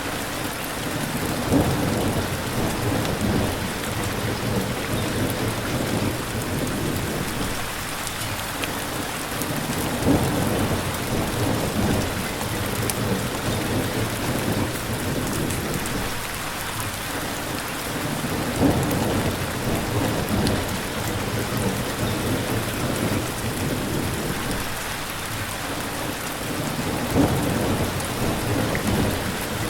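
Steady heavy rain with low rumbles of thunder that swell up four times, about every eight to nine seconds.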